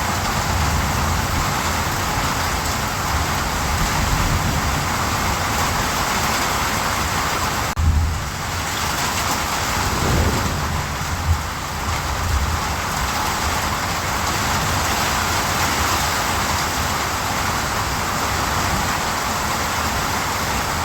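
Steady heavy rain, with low rumbling underneath that swells now and then. About eight seconds in the sound breaks off suddenly and resumes.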